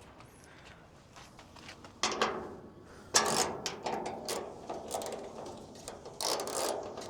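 Hand ratchet wrench clicking in short, rapid bursts, starting about two seconds in and coming again about a second later and near the end.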